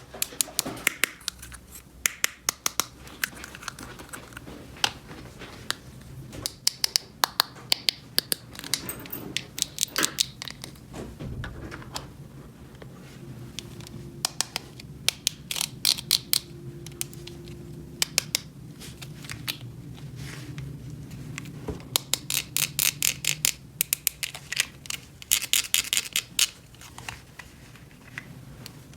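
Sharp clicks and clattering of small hard plastic toy pieces being handled, some single taps and some quick runs of clicks.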